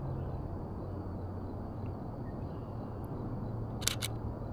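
Shutter of a Canon EOS RP mirrorless camera firing: two sharp clicks in quick succession near the end, over a steady low rumble.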